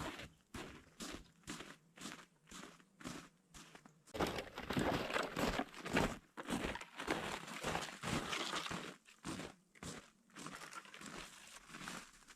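Footsteps crunching through snow, about two steps a second, turning into a denser, louder run of crunching and rustling from about four seconds in.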